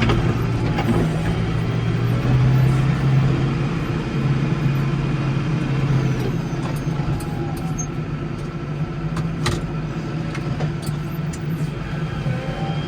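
Case 115U garden tractor engine running steadily under load, a little louder in the first half, with a few brief clicks and knocks.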